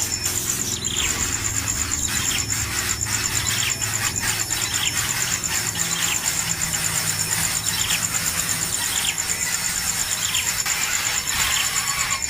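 Short high bird calls repeating roughly once a second, over a steady high-pitched insect trill.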